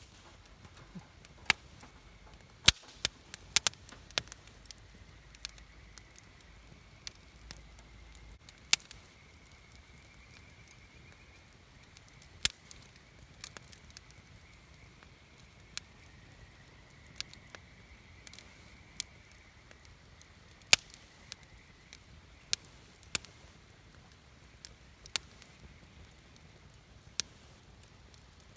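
Wood campfire burning, with sharp irregular pops and crackles about once a second over a quiet hiss.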